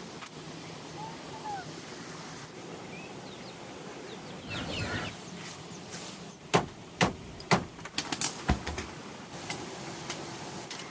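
Outdoor ambience with a short bird chirp, a brief rustle, then a run of sharp knocks, about two a second and closer together towards the end.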